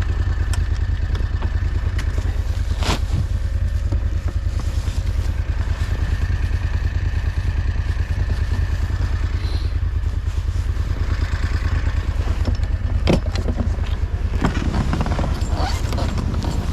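Loncin engine of a homemade snowmobile running steadily, with a rapid low pulsing. Two sharp knocks come through it, about 3 seconds in and again near 13 seconds, followed by some scraping near the end.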